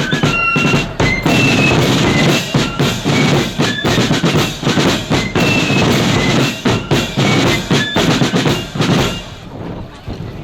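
Marching band playing on the march: bass and snare drums beating under short high melody notes, dying away about nine seconds in.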